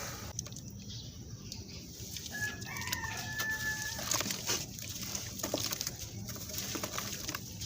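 A rooster crows once, starting about two and a half seconds in and lasting about a second and a half, over a steady run of gritty crackling and crunching from sand-cement being crumbled.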